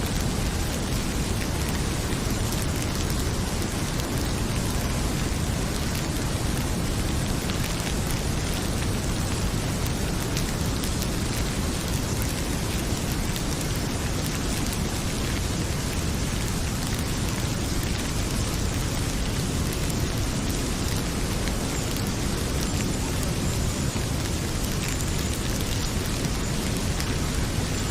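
Heavy rain pouring steadily, with the scattered crackle of a wood fire in a fireplace and a deep low rumble underneath.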